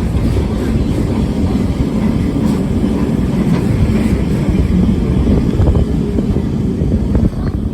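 Lisbon Tram 28, an old yellow tram, running along its rails: a steady low rumble with a few light knocks.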